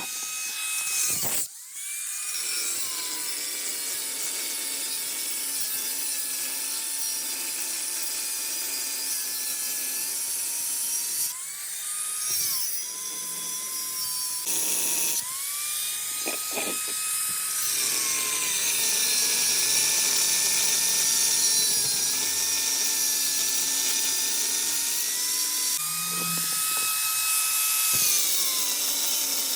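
Electric power tool cutting into the steel shell of a fridge compressor. Its motor whine sags in pitch as it bites into the metal and rises again as the load eases, over a hiss of cutting noise, with a brief stop about a second and a half in.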